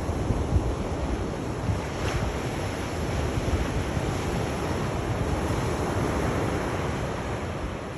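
Sea waves washing on the shore, a steady rushing surf with a deep rumble, swelling gently in level. Wind noise on the microphone.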